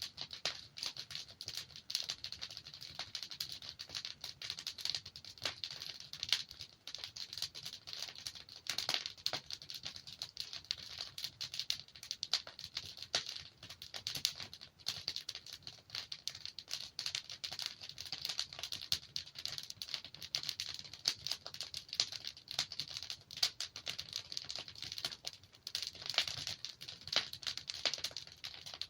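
Logs burning in a fireplace, crackling continuously with many small irregular crackles and occasional louder pops.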